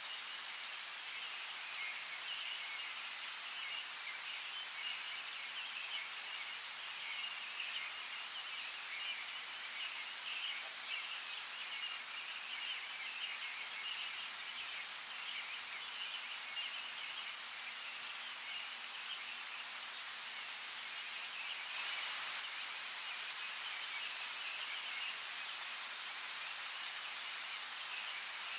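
Steady rain with scattered sharper drop ticks, under a dense, continuous chirping of birds. The rain grows a little heavier about three-quarters of the way through.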